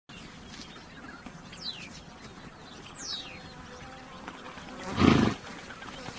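A horse gives one short, loud snort about five seconds in. Before it, a bird sings two high whistles, each falling in pitch.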